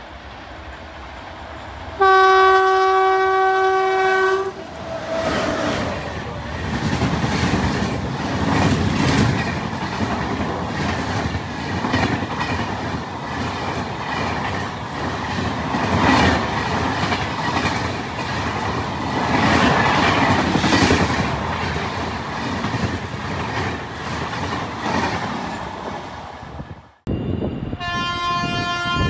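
An electric locomotive's horn sounds loudly for about two seconds, then a passenger train rushes past close by for over twenty seconds, with the wheels clattering over the rail joints. Near the end another locomotive horn sounds.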